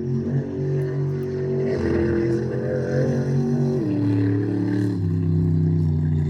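Monster truck engine running loud, its pitch rising a little and then dropping about four seconds in.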